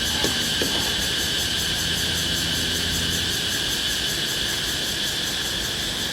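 Forest insects chirring steadily in a dense chorus, with a low hum underneath that fades about halfway through and two small clicks near the start.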